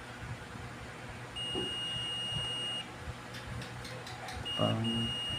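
Multimeter continuity beeper sounding as the probes touch points on a circuit board: a steady high beep of about a second and a half, then a short blip and a second long beep near the end. The beep signals that the tested path conducts.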